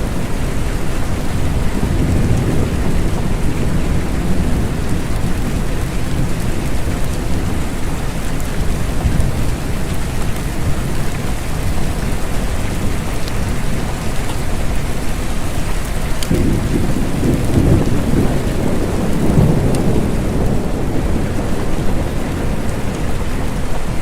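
Steady rain, with low rumbles of thunder rolling through: one about two seconds in and a longer roll from about sixteen to twenty seconds in.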